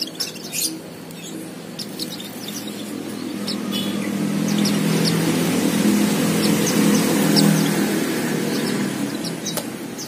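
Small birds chirping again and again in short high notes. Under them a low hum builds from about three seconds in, is loudest near seven seconds, then eases off.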